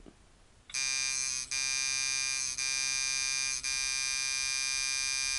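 Soba Ace coil tattoo machine with Wesley Verity 8-layer coils switched on about a second in and buzzing steadily at a high, even rate, with brief dips a few times.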